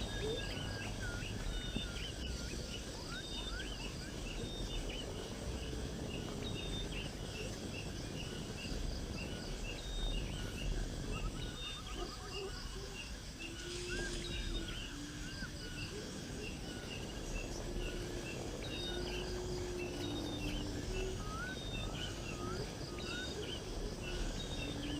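Outdoor bird sounds: many short, repeated high chirps from small birds, with some lower, longer calls now and then in the second half, over a steady low background rumble and insect noise.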